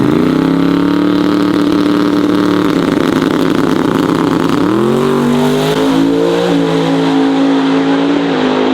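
A drag-racing truck's engine revving up quickly and holding at high revs, then climbing again about five seconds in and holding there until it eases off near the end.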